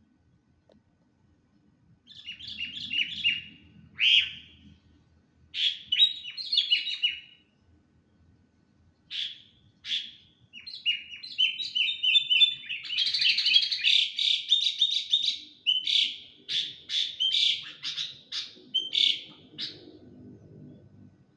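Sooty-headed bulbul (kutilang) calling in rapid runs of short chirps, starting about two seconds in and growing busier and denser in the second half. The uploader takes the calling for a stressed, excited bird.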